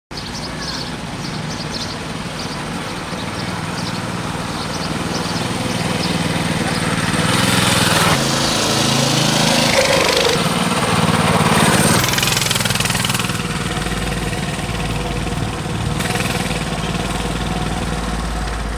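Coleman mini bike's 196 cc single-cylinder four-stroke engine running. It grows louder through the middle, with its pitch changing as the throttle is worked, then eases back to a steadier, quieter run.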